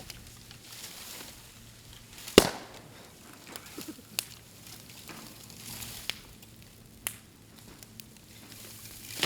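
Bamboo burning on a bonfire, crackling, with sharp pops as the heated stems burst. The loudest pop comes about two and a half seconds in, followed by several smaller ones.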